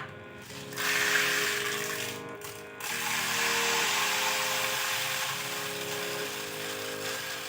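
Background music with steady notes, over the noise of a tool working on a plastic bottle. The tool noise starts about a second in and breaks off briefly near three seconds.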